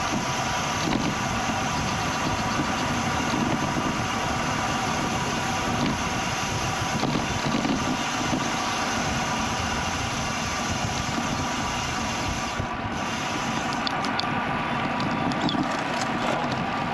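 Steady ride noise from a camera on a moving bicycle: wind and tyres on the road, with a few light clicks near the end.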